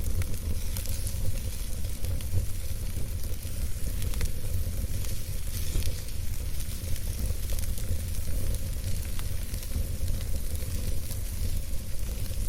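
Wood campfire burning, with a steady low rumble and hiss under many small irregular crackles and pops.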